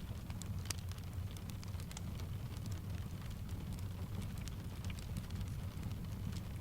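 Steady rain mixed with a crackling wood fire: a constant low rumble under a soft hiss, with scattered sharp crackles and taps.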